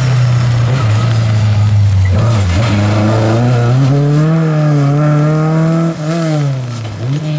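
Rally car engine under hard acceleration, its pitch climbing steadily, with brief dips where the driver changes gear.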